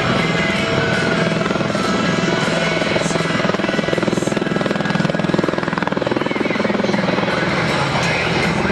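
MV-22B Osprey tiltrotor hovering with its nacelles upright, its two proprotors beating in a steady rapid pulse under a high turbine whine.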